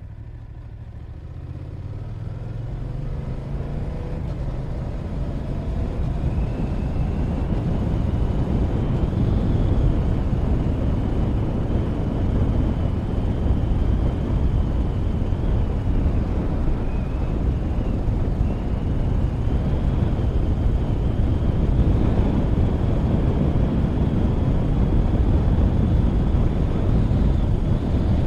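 Motorcycle pulling away, its engine rising in pitch over the first few seconds, then giving way to wind rushing over the camera microphone, which grows louder as the bike gathers speed and stays steady.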